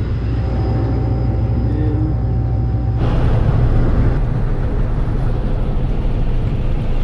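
Heavy farm machinery engine running steadily with a low rumble. About three seconds in, a thin whine stops and a hissing noise joins in.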